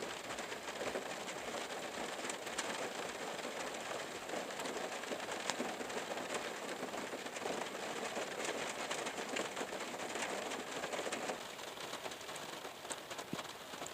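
Steady rain falling on a van's roof, heard from inside: a constant hiss with many small scattered drop taps.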